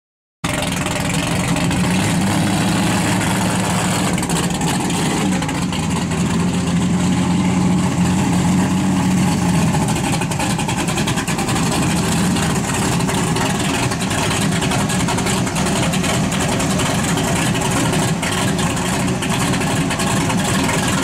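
Car engine held at high revs through a long burnout, with a loud, steady broad hiss over it; the engine note is strongest about halfway through.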